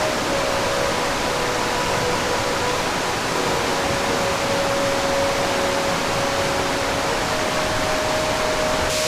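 Mountain stream rushing steadily: a constant wash of flowing water with no breaks.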